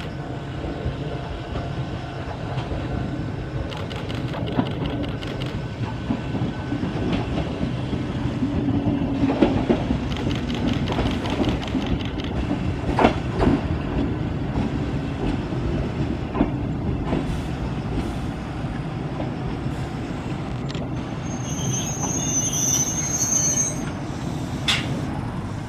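Yoro Railway electric train running through the station: a steady rumble of the cars with sharp clicks of the wheels now and then, and a high squeal of the wheels near the end.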